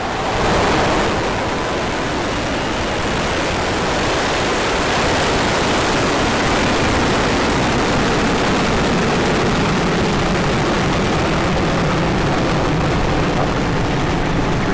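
Falcon 9 first stage's nine Merlin 1D engines thundering just after liftoff: a loud, steady rushing noise that swells about half a second in and then holds even.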